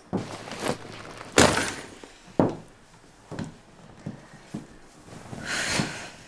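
High-heeled boots stepping slowly on a wooden floor, about one sharp step a second, then a few softer knocks and a rustle of fabric near the end as a person lies down on a sofa.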